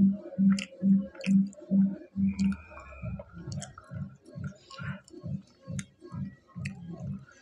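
A man chewing a mouthful of fried pakora close to a clip-on microphone: steady rhythmic chewing, about two chews a second, with small wet mouth clicks.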